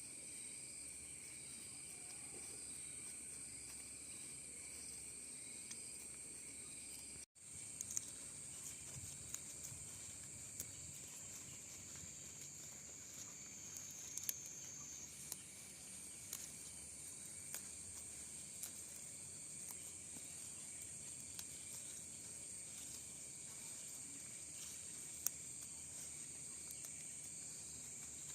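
Faint, steady high-pitched insect chorus, with scattered light clicks and a brief cut in the sound about seven seconds in.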